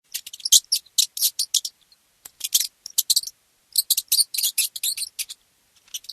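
Mouse squeaking: rapid runs of short, high-pitched squeaks in several clusters, with brief pauses between them.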